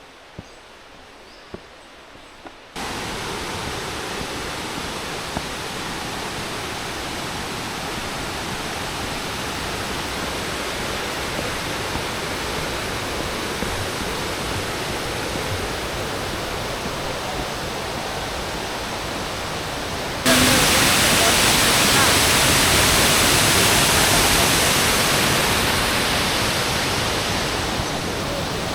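Waterfall rushing: a steady, even roar of falling water that comes in suddenly after a few quiet seconds with a few faint clicks, then steps up abruptly louder about two-thirds of the way through.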